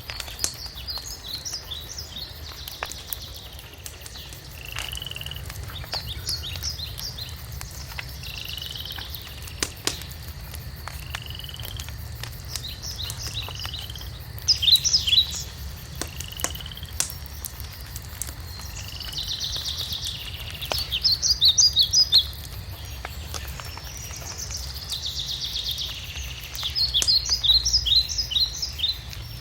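Songbirds singing: short phrases of quick high notes every few seconds, with single lower whistled notes between them. Underneath, a wood fire crackles with scattered sharp pops over a steady low rumble.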